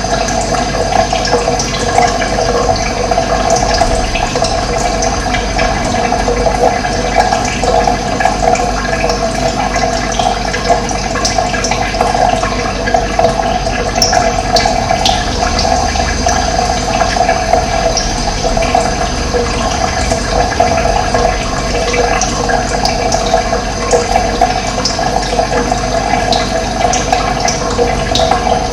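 Running water rushing steadily, with a few short, high bird chirps now and then over it.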